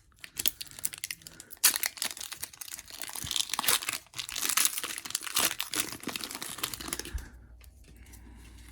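Foil Pokémon booster pack wrapper crinkling and being torn open, a dense crackle that stops about seven seconds in.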